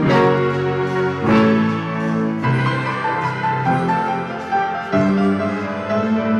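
Community concert band of brass and woodwinds playing, held chords that move to a new chord about every second and a quarter.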